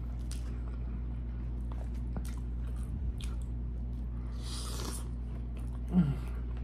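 Close-up chewing and mouth sounds of a man eating loaded fries, with small clicks from the fork in the food and a short rustle about four and a half seconds in. A brief low 'mm' comes near the end, over a steady low hum.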